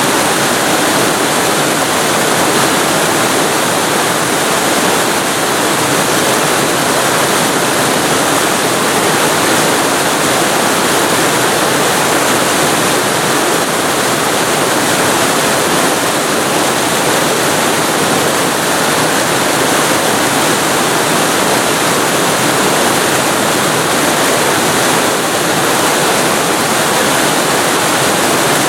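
Waterfall recorded very close to the falling water: a loud, steady rush of water, strongest in the middle and low-middle range.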